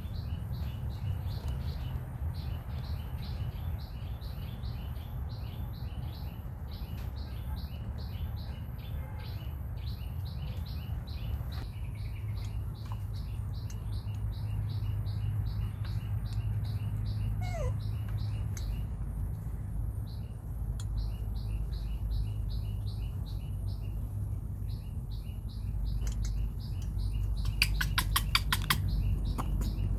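Background birds chirping: short chirps repeating evenly a few times a second over a low steady rumble. Near the end comes a quick run of about ten sharp clicks.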